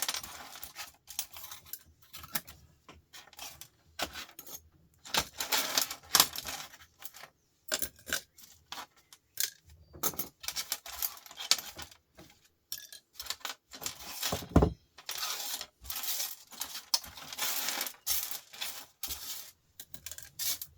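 Small metal screws clinking and rattling as they are dropped into a box: a long, irregular run of sharp clicks.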